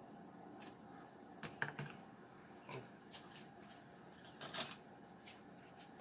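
Faint sound of a pot of water boiling with broccoli blanching in it, with a few light clicks and taps from the pot: two sharp clicks about a second and a half in, one near three seconds, and a short cluster about four and a half seconds in.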